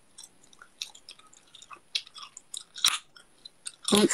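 Someone chewing with an open mouth close to a phone microphone: irregular wet clicks and smacks, with a louder, noisier mouth sound just before the end.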